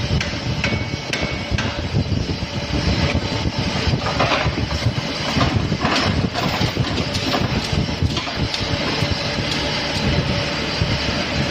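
Overband magnetic separator and its conveyor running with a steady mechanical rumble and rattle, with scattered knocks and clanks as material is fed through.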